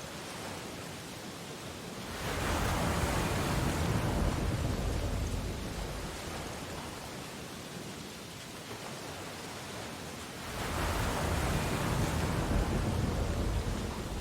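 Ocean waves breaking on a beach: a wave rushes in about two seconds in and fades away, then a second one swells about ten seconds in and fades near the end.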